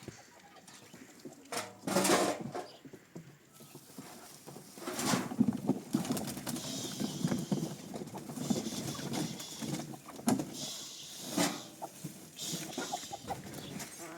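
Chickens and other farmyard birds calling, broken by several short, sharp knocks or crunches.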